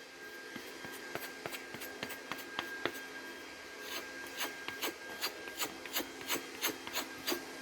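Knife blade being stroked back and forth on a strop, in short rubbing strokes that settle into a quick rhythm of about three a second partway through. The stropping is done to clear the last micro burr from a freshly sharpened edge.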